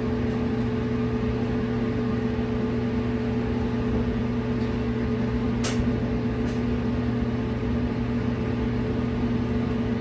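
Gas clothes dryer running on high with a steady motor-and-drum hum, and a single sharp click about six seconds in. The burner does not light, so the dryer runs without producing heat.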